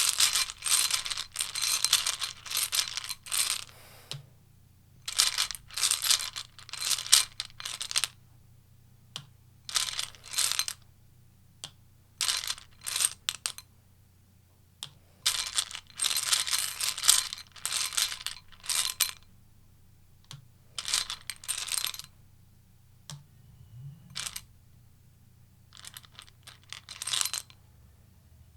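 A tarot deck being shuffled by hand: repeated bursts of rapid, crackly card-on-card clicking, each lasting up to a few seconds, separated by short pauses.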